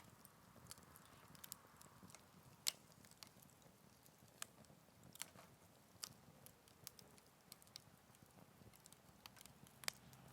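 Wood fire crackling in a Picogrill 398 fire pit: irregular sharp pops and snaps over a faint hiss, with the loudest pops about two and a half seconds in and near the end.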